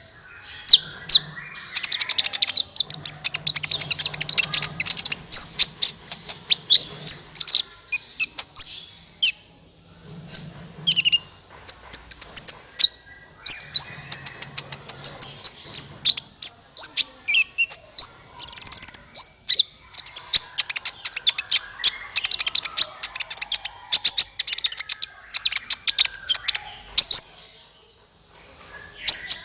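Sunbird (the Indonesian 'kolibri ninja') song used as a bird-catching lure call: rapid, sharp, high-pitched chirps and twittering trills in bursts, broken by short pauses.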